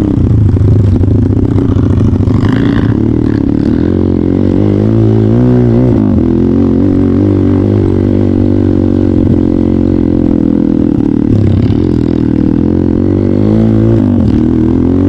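Trail motorcycle engine running under way, held fairly steady with the revs rising and falling about five seconds in and again near the end.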